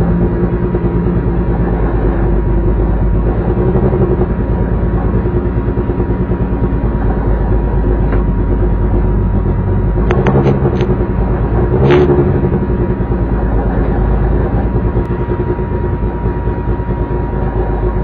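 Race car engine running at a steady pitch, heard from inside the stripped, roll-caged cabin, with no revving or gear changes. A few short clicks and knocks come about ten and twelve seconds in.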